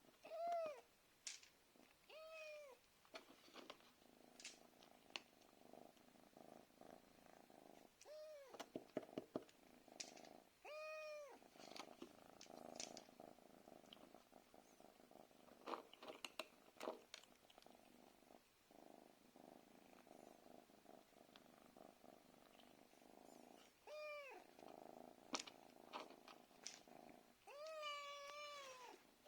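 Domestic cat meowing about six times, each meow a short rise-and-fall call, over a steady purr and scattered small clicks. The cat is meowing to be fed.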